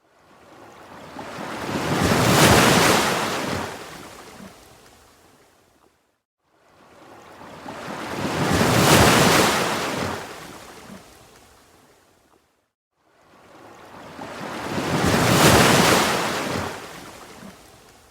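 Ocean waves washing in three times at an even pace, about every six and a half seconds; each swell builds to a peak of surf hiss and then fades away almost to silence before the next.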